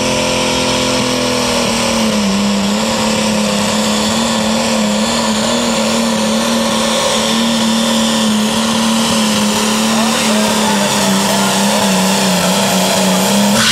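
Light limited super stock pulling tractor's turbocharged diesel engine at full throttle down the track, holding a steady pitch after a brief dip about two seconds in. The engine winds down right at the end as the pull finishes.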